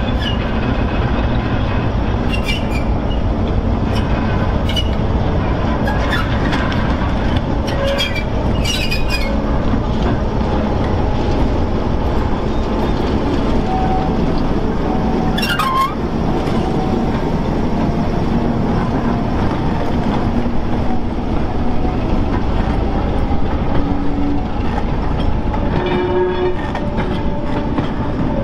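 Class 08 diesel shunter working with its guard vans on the line, a steady low rumble throughout. Scattered clicks in the first half and one brief falling squeal about fifteen seconds in.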